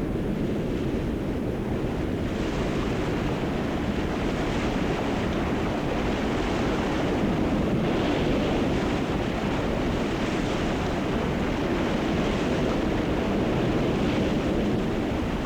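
Ocean surf: waves breaking and washing in as a steady rushing noise that swells louder about two seconds in.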